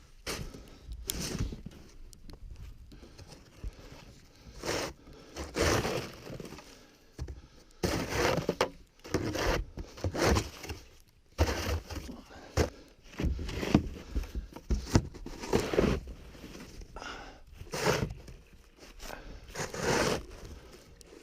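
Crunching and scraping in deep snow, in irregular short bursts about once a second.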